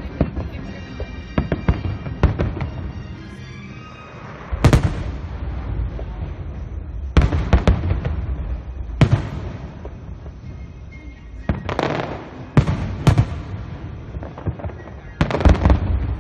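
Aerial fireworks shells bursting in a long series of sharp booms, a second to a few seconds apart, with crackling between them. The loudest strike about four and a half seconds in, and several more come close together near the end.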